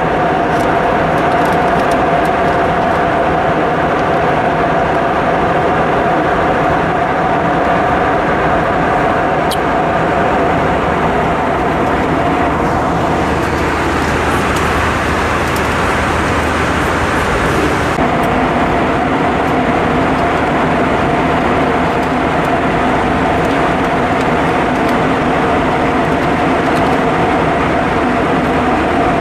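Cabin noise inside an Airbus A320-232 in flight: a steady rush of airflow and engines with a steady hum over it. About halfway through, the hum drops out for several seconds, leaving only the rush, and then returns.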